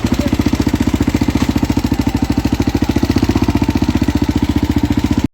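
Husqvarna SM610 supermoto's single-cylinder four-stroke engine idling just after starting, firing in a rapid, even pulse at a steady speed.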